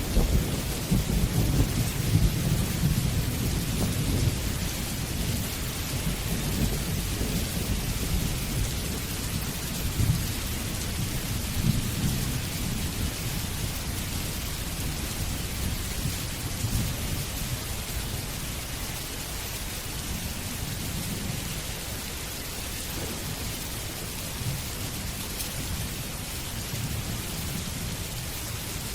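Steady rain with a low roll of thunder. The rumble is strongest over the first several seconds and dies away about halfway through, leaving the even patter of the rain.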